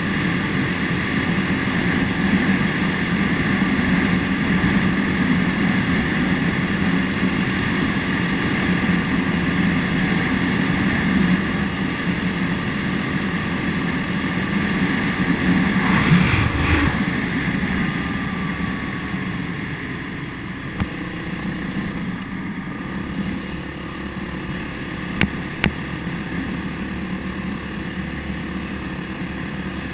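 Motorcycle engine running steadily while riding. About halfway through there is a brief louder surge, after which the engine runs a little quieter, and a few sharp clicks come near the end.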